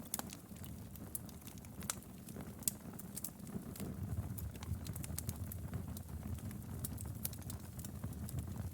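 Wood fire crackling in a fireplace: irregular sharp snaps and pops, several a second, over a steady low rumble of the burning, with one louder pop about three seconds in.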